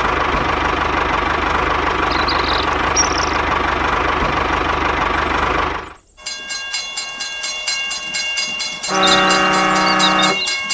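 A steady noisy rumble that cuts off about six seconds in, then fast, even clicking with a single horn blast of about a second and a half near the end.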